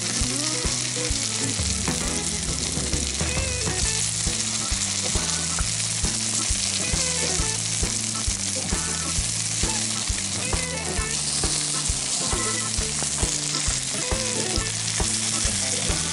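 Zucchini fritters sizzling steadily as they fry in hot vegetable oil in a frying pan.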